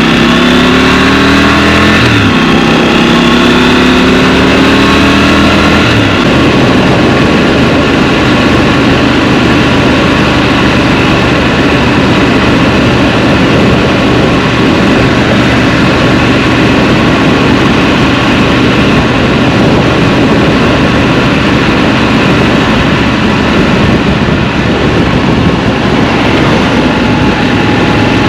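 Scrambler motorcycle engine accelerating: its note rises, drops back with an upshift about two seconds in, rises again and shifts once more about six seconds in. It then runs steadily at speed under a dense rush of noise.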